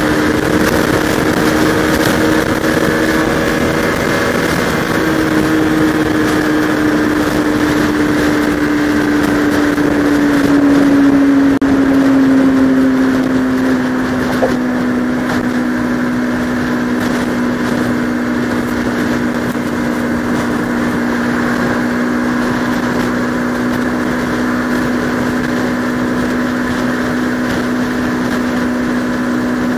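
Bajaj Pulsar RS200 single-cylinder motorcycle engine running at a steady cruise, its note dropping slightly about ten seconds in and then holding, under wind and road rush on a helmet-mounted camera.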